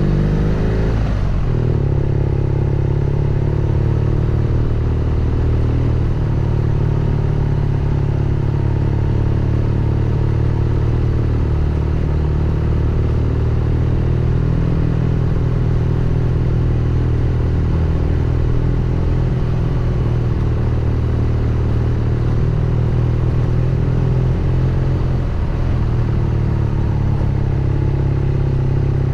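BMW R nineT Scrambler's air/oil-cooled boxer twin running at low, fairly steady revs, its pitch dropping about a second in as the revs fall.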